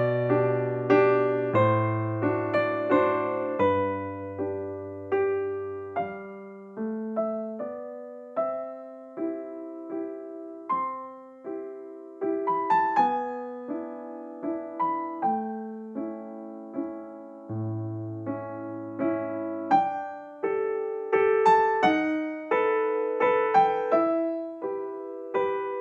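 Background music: a gentle solo piano piece, struck notes decaying, with a slow bass line under a light melody.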